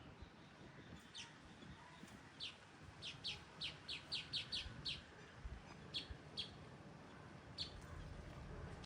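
Baya weavers chirping: short, sharp chips, with a quick run of about ten near the middle and a few single ones before and after.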